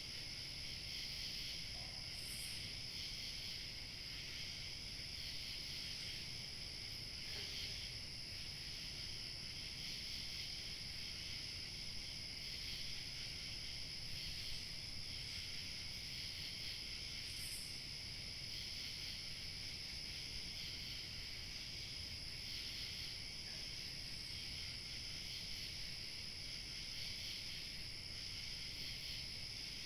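Crickets chirping in a steady, dense chorus over a low rumble of light wind, with a couple of brief higher chirps.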